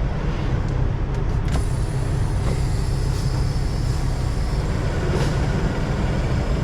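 Semi truck's diesel engine running steadily, heard from inside the cab. A click comes about a second and a half in, followed by a faint hiss of air for a few seconds.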